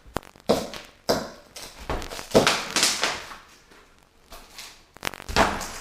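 Broken subfloor debris being scraped and gathered by hand without a shovel: a series of rough scraping, crunching strokes with short pauses between, the longest a little past halfway.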